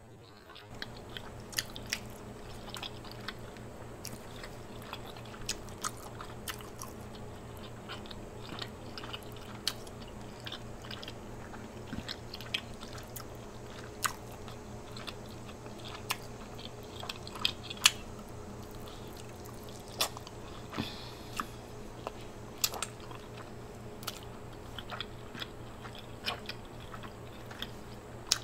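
Close-miked chewing of shrimp, wet and smacking, with many short sharp mouth clicks scattered throughout, over a steady low hum.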